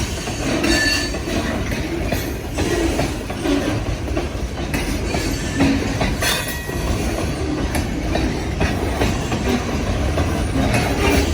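Freight train rolling past: a steady rumble of wheels on rail, with scattered clicks and a few brief high wheel squeals.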